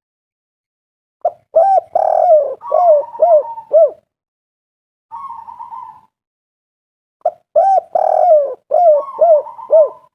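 Spotted dove (tekukur) cooing: a phrase of several arched coos about a second in, repeated about seven seconds in, with a short, softer purring trill between the two phrases.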